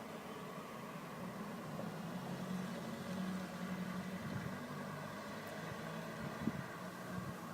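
A steady low drone of several held tones, like distant machinery running, swelling a little a few seconds in. It is the unexplained hum the uploader calls a strange sound.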